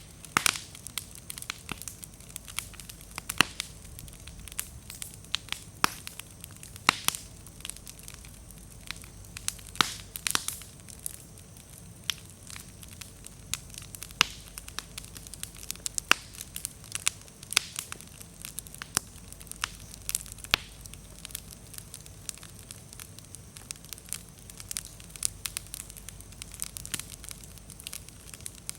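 Wood bonfire crackling and popping: many sharp, irregular pops and snaps, some much louder than others, over a low rushing of flame. The firewood is a little damp, which makes it pop and spark more.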